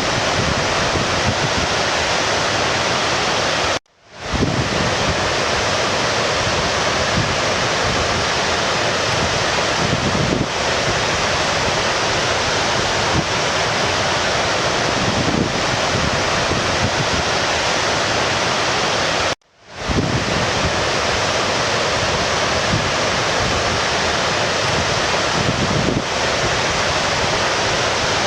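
Steady rush of flowing stream water, cutting out for a split second and fading back in twice: about four seconds in and again about two-thirds of the way through.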